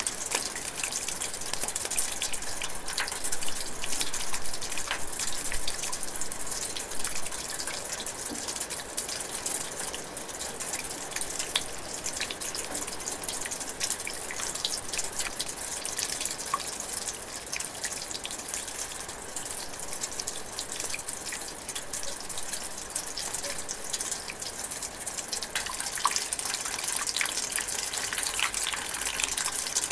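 Light rain drizzling: a steady hiss with many fine individual drips of drops.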